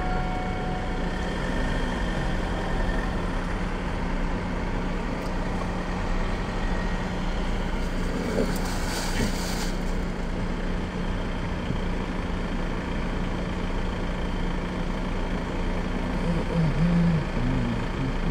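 Car interior noise while creeping in a traffic queue: the engine idling with a steady low hum. A brief hiss comes about eight seconds in.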